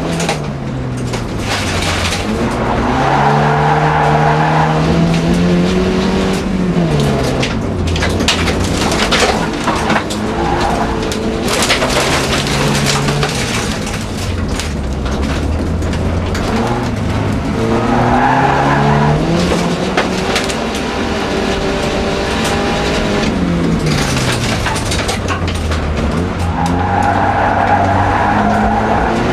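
Volvo 240 folk-race car's engine revving hard, its pitch climbing and then dropping back again and again as the car accelerates, shifts and lifts through the corners of a loose gravel track. Throughout there is clicking and clattering of gravel against the car, thickest in the middle, along with tyre noise.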